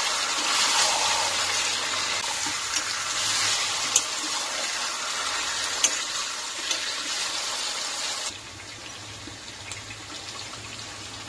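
Chicken pieces sizzling in hot masala in a nonstick pan as they are stirred and sautéed with a spatula, with a few sharp clicks of the spatula against the pan. The sizzle drops abruptly to a lower level about eight seconds in and carries on quieter.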